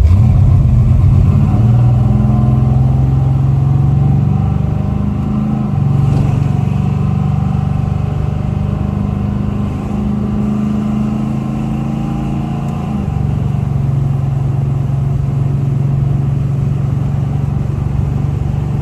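V8 engine of a Chevy LUV pickup running steadily while driving on the road, its note stepping in pitch a few times as the speed or gear changes.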